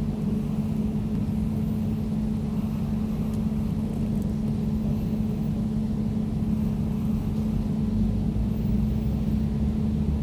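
Air conditioner running steadily: a constant low hum with a clear steady tone over a low rumble.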